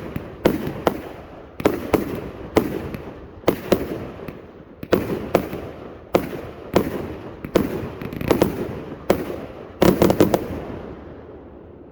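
A 400-shot salute firework cake firing a string of sharp reports, roughly two a second, each with a short rumbling echo. It ends in a quick cluster of bangs and then dies away as the cake finishes.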